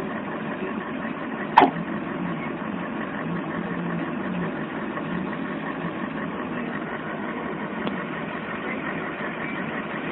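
An engine running steadily, with one brief sharp sound about one and a half seconds in.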